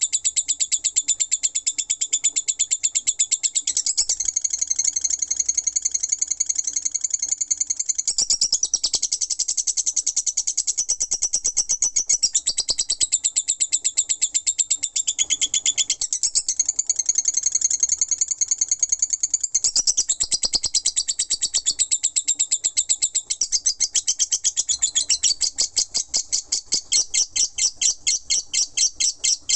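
Lovebird singing its 'ngekek' song: a long, unbroken run of rapid, high-pitched chattering notes. Near the end the notes become more separate and pulsing.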